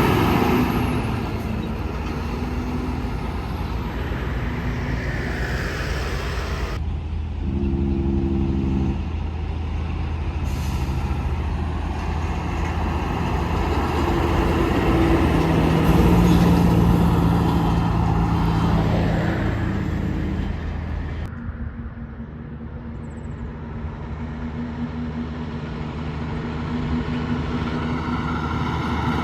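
Diesel semi-trucks running by on the road, their engines droning steadily under road noise. The sound changes abruptly about seven seconds in and again about twenty-one seconds in, swelling in between and easing near the end.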